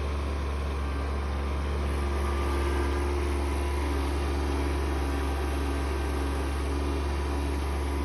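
Kubota B2601 compact tractor's three-cylinder diesel engine running steadily, with a deep constant hum.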